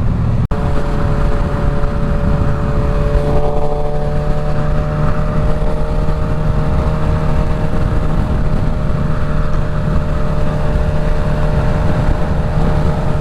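Suzuki GSX-S1000's inline-four with a full Dominator exhaust, ridden at a steady cruise, its engine note holding nearly level with wind rush, heard through a helmet microphone. The sound cuts out for an instant about half a second in.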